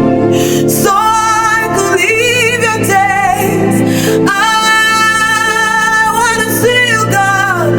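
A woman singing long, wavering held notes over sustained instrumental chords: a slow worship song.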